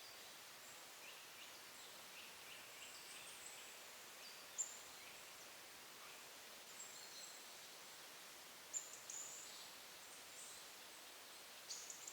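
Faint, high-pitched calls and chirps of small woodland songbirds, scattered short notes over a quiet forest background, with a few sharper single notes about halfway through and near the end.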